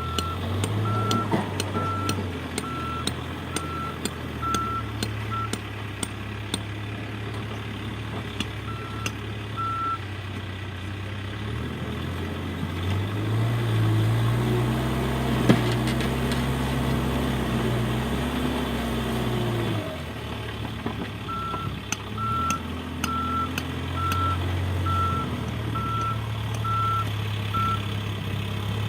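Heavy earthmoving machine's engine running under the steady beeping of its reversing alarm, about one and a half beeps a second. The beeping pauses midway while the engine revs up and holds higher for several seconds, then drops back, and the beeping resumes near the end; scattered knocks sound throughout.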